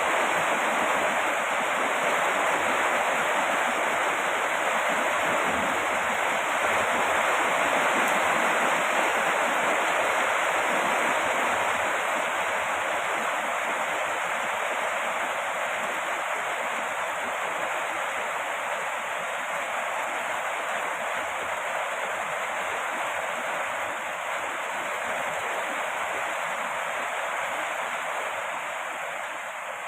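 Heavy rain falling steadily, a dense, even hiss with no separate drops standing out, easing slightly in loudness toward the end.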